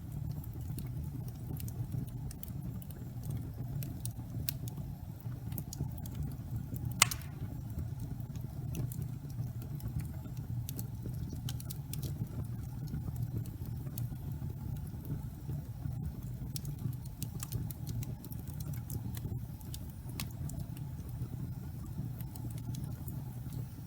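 Wood fire burning in a fireplace: a steady low rumble of flames with scattered small crackles, and one loud sharp pop about seven seconds in.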